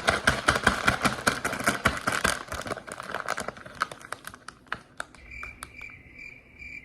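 Plastic candy packaging crinkling and crackling as it is handled, thinning out after about three seconds. Near the end a faint high tone pulses a few times a second.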